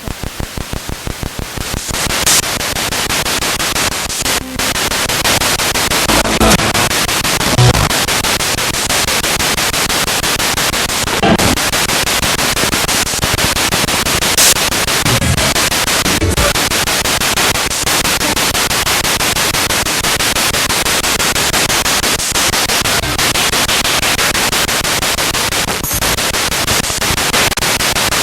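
Spirit box radio sweeping through stations: a continuous hiss of static chopped into rapid pulses, with brief snatches of broadcast sound breaking through now and then.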